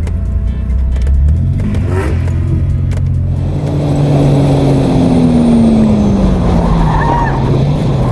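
Datsun 280Z's straight-six engine running under load, its note stepping up about a second in. A rougher wash of noise builds from about four seconds in while a tone slides slowly downward.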